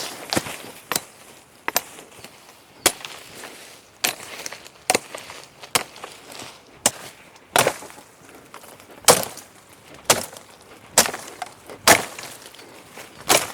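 Wood being chopped, a series of sharp strikes landing about once a second.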